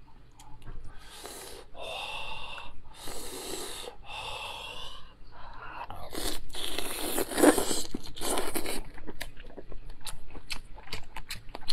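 Close-miked eating sounds: a person biting into and chewing seafood coated in chili-oil dipping sauce, with a few separate bites or mouthfuls in the first half and steadier chewing after about six seconds.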